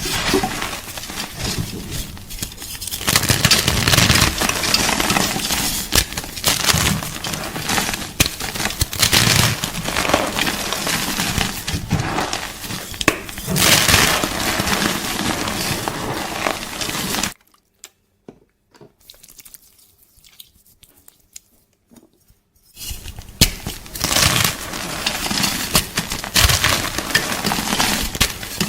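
Gym chalk being crunched and crumbled: a dense crackling crunch full of sharp little snaps. It stops for about five seconds, leaving only a few faint clicks, then starts again.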